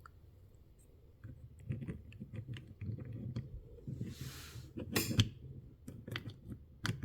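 Light clicks and taps of tiny miniature craft pieces being handled and pressed together, starting about a second in, with a brief rustle near the middle and a sharper click just after it.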